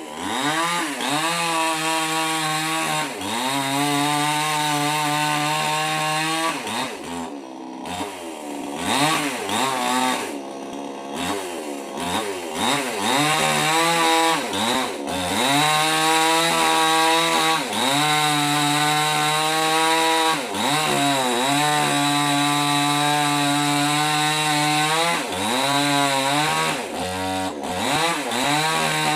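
Mini petrol chainsaw cutting wood: the engine runs at high revs under load, drops back several times as the throttle is eased (about a third of the way in, and again near the middle and near the end), and then revs up again.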